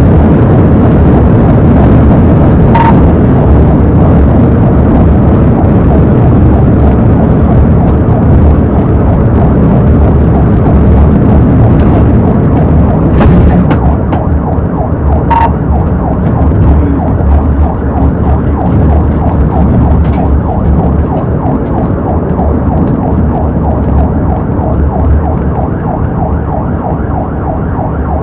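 Police cruiser driving hard in a pursuit: loud engine and road noise heard inside the car, with its siren sounding. A few sharp clicks occur, and the noise eases slightly about halfway through.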